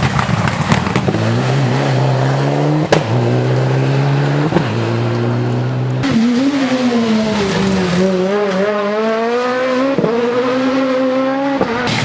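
Rally car engine at high revs, pulling up through the gears with a sharp crack at each shift. About halfway through, the engine note rises and wavers up and down for several seconds, with more cracks, before dropping away near the end.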